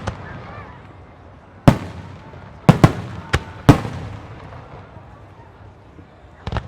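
Aerial fireworks display shells bursting: one sharp bang about a second and a half in, a quick run of four around three to four seconds, and two more near the end, each trailing off in a rolling echo.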